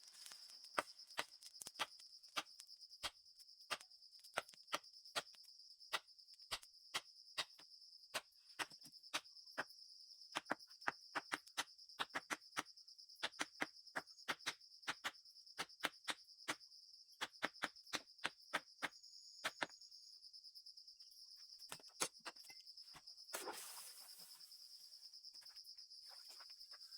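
Series of sharp, dry knocks or taps, roughly two a second for about twenty seconds, with no ringing after them, then stopping. Under them runs a steady high chirring of crickets.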